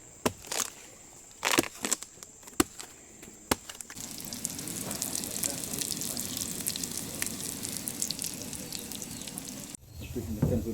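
Several scattered sharp knocks, then from about four seconds in a steady crackling hiss, like food frying, which cuts off suddenly near the end.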